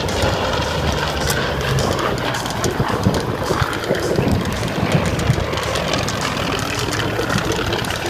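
Aircraft engines during a low-level flying display: a steady rushing drone with crackling.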